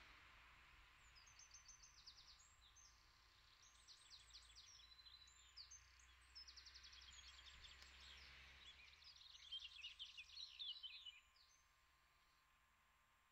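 Faint songbird singing: a string of high chirps and rapid trills that stops about eleven seconds in.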